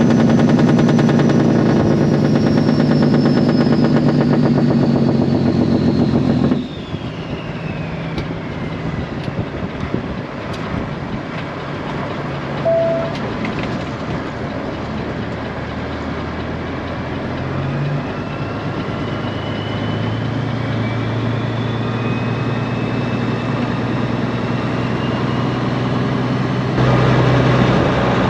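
Straight-piped Peterbilt 389's diesel engine running on the road, loud at first, then dropping sharply in level about six seconds in and pulling back up in pitch later, jumping loud again near the end. A high whistle falls in pitch, then slowly rises again alongside the engine.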